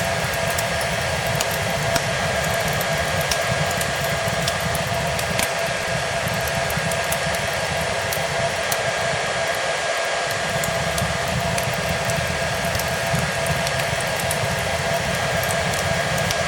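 Hair dryer running steadily, a constant rushing hiss with a steady motor whine, mixed with fireplace crackle: scattered small pops and snaps through it.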